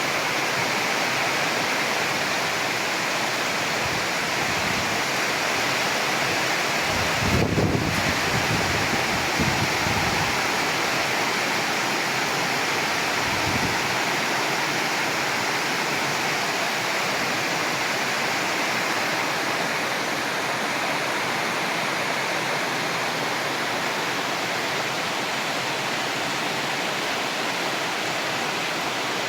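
Heavy rain falling in a steady, even hiss. A brief low rumble about a quarter of the way through.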